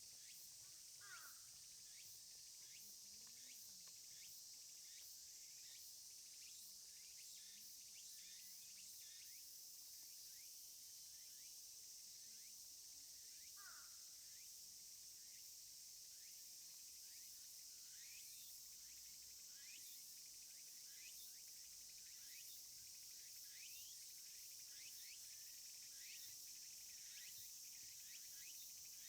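Faint outdoor ambience of a steady, high-pitched insect chorus. Many short high chirps are scattered throughout, and twice there is a brief falling call, about a second in and again about 14 seconds in.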